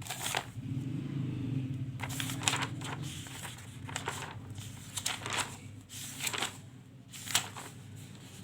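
Paper rustling in several short strokes, as notebook pages are handled and turned, over a low steady hum.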